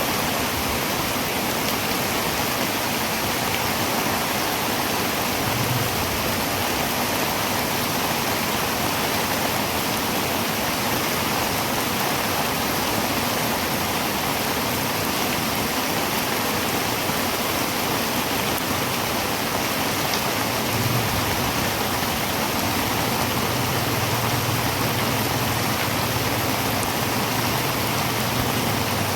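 Heavy rain drumming steadily on a tin roof, a dense even hiss of countless drops on metal. A faint low rumble comes and goes beneath it in the second half.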